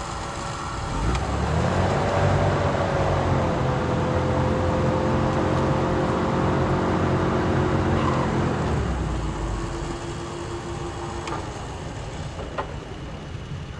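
Tracked recovery vehicle's engine revving up about a second in, holding at a steady higher speed with a sustained whine for several seconds, then dropping back to idle near the end.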